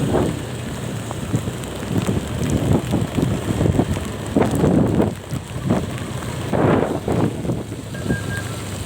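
Wind buffeting the microphone in uneven gusts over a steady low rumble from a moving vehicle in the rain. A faint short beep comes near the end.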